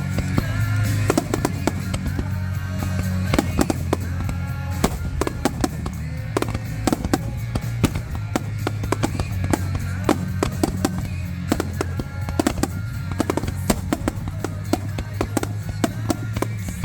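Fireworks bursting and crackling in quick succession over music with a steady low bass line.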